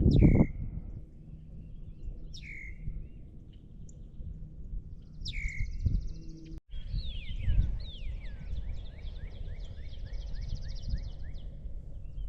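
Several songbirds calling and singing: three sharp down-slurred calls, then a fast run of short repeated rising notes with a buzzy trill above them, over a low rumble on the microphone.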